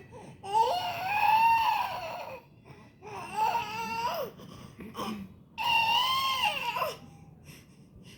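Five-month-old baby making three long, wavering, cry-like wails, each rising and then falling in pitch.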